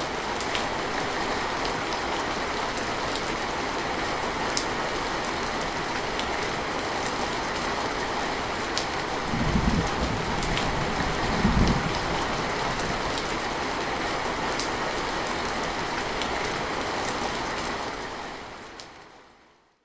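Steady rain falling, with scattered sharper drops. Two brief low rumbles come about two seconds apart midway, and the rain fades out to silence near the end.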